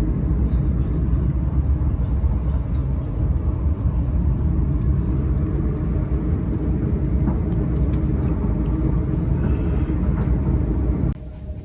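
Southeastern Class 395 Javelin electric train running at speed, heard from inside: a loud, steady low rumble of wheels on the track.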